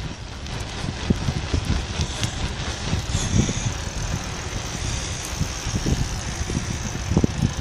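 Cars and trucks passing on a fast road, a steady traffic rush with gusty low wind rumble on the microphone.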